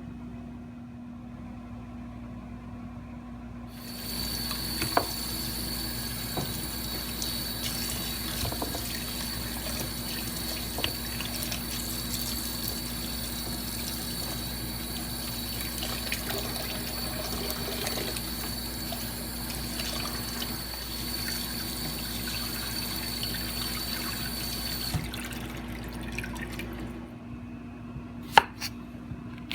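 Water running from a tap, turned on a few seconds in and shut off near the end, with a few light clicks and knocks.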